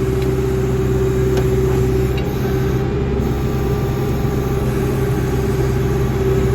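John Deere backhoe's engine running at a steady speed, a low constant drone with a steady hum over it.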